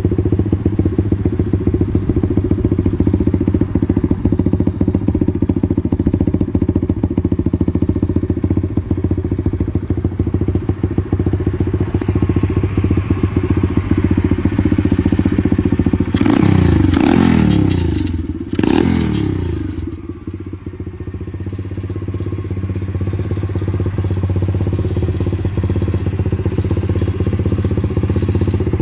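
Barton DB125 pit bike's 125 cc single-cylinder four-stroke engine idling steadily, blipped twice about two-thirds of the way through, each rev dropping quickly back to idle.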